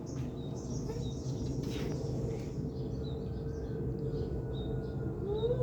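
Small birds chirping, short high chirps repeating, over steady background noise. A brief rising call sounds just before the end.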